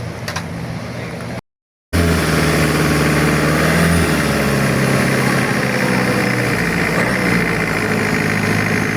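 A boat's engine running steadily with a low hum, cut off briefly about a second and a half in. It comes back louder, its pitch easing down a little in two steps.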